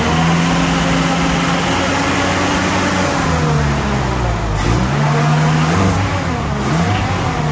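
1989 Toyota pickup's engine running at raised revs, held up for a few seconds, then dropping and being revved up again about five seconds in and once more near the end.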